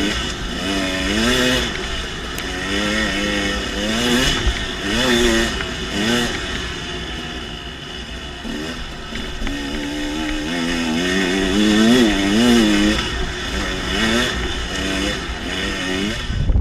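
Dirt bike engine being ridden, its pitch rising and falling over and over with the throttle.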